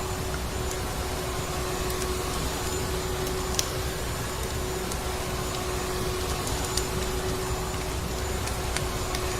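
Vacuum cleaner motor running steadily: an even rushing drone with a constant hum, with scattered faint clicks like fireplace crackles over it.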